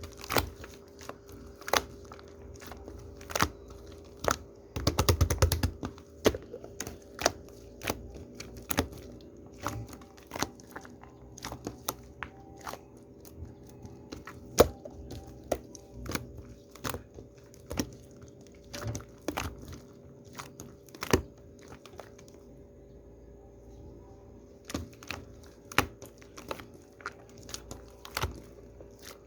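Hands working shaving foam, giving a scatter of sharp wet crackles and pops, with a quick burst of them about five seconds in. A faint steady hum runs underneath.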